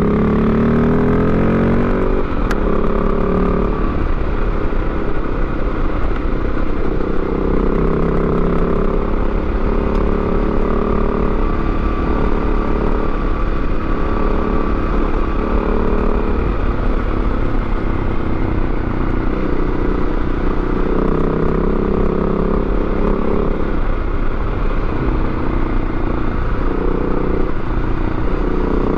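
Yamaha Ténéré 700's 689 cc parallel-twin engine running under way, pitch climbing over the first couple of seconds, dropping sharply, then rising and falling with the throttle. Tyres crunch on loose gravel underneath.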